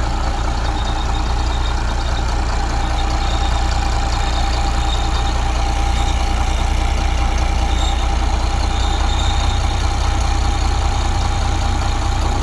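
International DT466 inline-six diesel engine of a 1982 International S1900 dump truck running steadily, a deep rumble with a steady whine over it.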